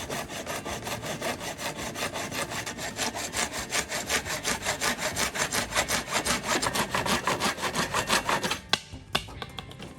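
Hand saw cutting wood in quick, even back-and-forth strokes, about four a second. The sawing stops shortly before the end, followed by a couple of sharp knocks.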